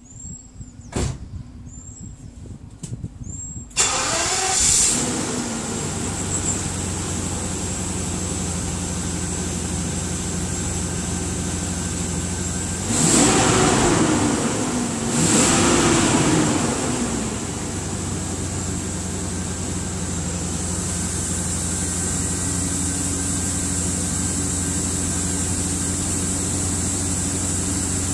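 BMW 850Ci (E31) M73 5.4-litre V12 starting about four seconds in, flaring its revs, then settling to a steady idle through the original exhaust. Two short throttle blips come near the middle. A few clicks come before the start.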